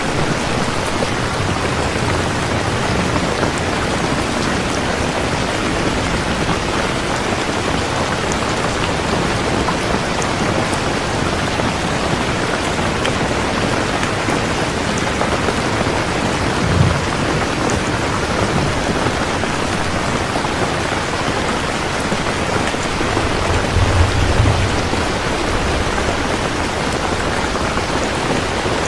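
Heavy rain falling steadily, with thunder: a brief low thud a little past halfway and a longer low rumble near the end.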